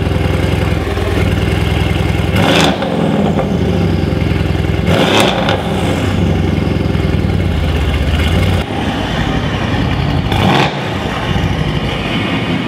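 Mercedes-AMG C63's 4.0-litre twin-turbo V8, fitted with catalyst replacement (cat-delete) pipes, running at a steady idle and blipped three times, each a short rise and fall in revs.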